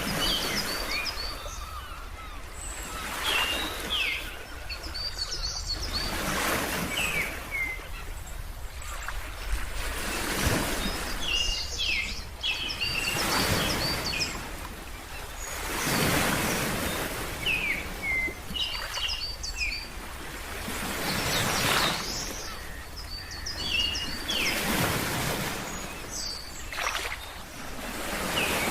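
Ocean waves washing in, swelling and falling every few seconds, with small birds chirping in short runs of high notes between them.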